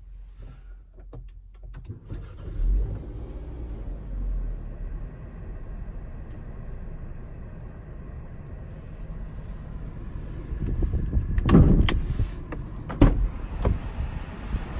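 Nissan Serena (GC27) with its 2.0-litre four-cylinder engine running steadily at a low pitch, with a brief rise in level about two and a half seconds in. Several loud knocks or thumps come about eleven to thirteen seconds in.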